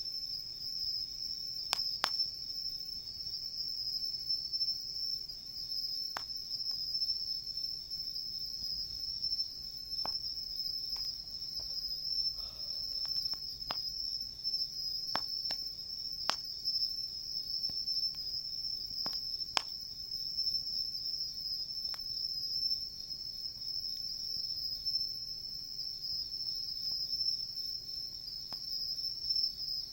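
Insects singing in a steady, high-pitched chorus, with a dozen or so sharp pops from a wood campfire scattered through it.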